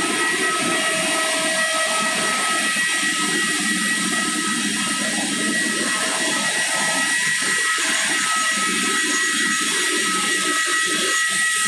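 Airliner jet engines running steadily: a high, constant whine over a loud hiss, with no rise or fall in pitch.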